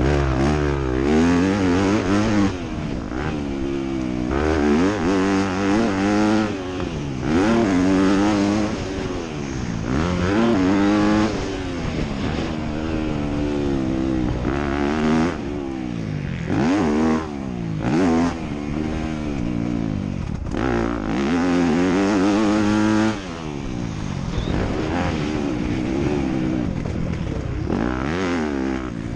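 Motocross dirt bike engines revving hard, the pitch climbing and falling again and again as the throttle is opened, shifted and chopped.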